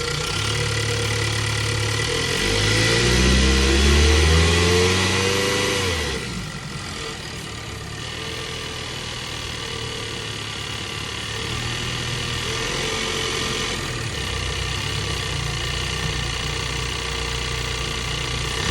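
2022 Ford Bronco's 2.3-litre turbocharged four-cylinder engine running. It is revved about two seconds in, its pitch climbing for a few seconds, then drops back about six seconds in and runs steadily at a lower speed.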